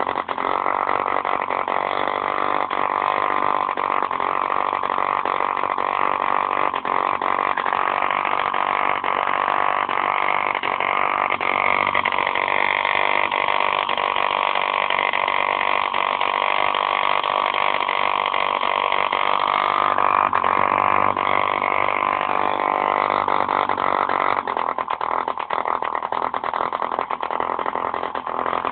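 B51 model diesel engine running steadily with a rapid firing buzz. Its note shifts slightly about twelve seconds in and again about twenty seconds in.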